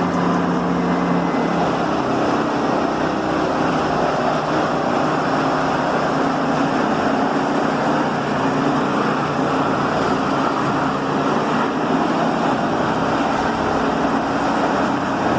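Heavy diesel machinery running steadily under load, a dense, even engine noise; a lower pitched hum fades out about a second and a half in.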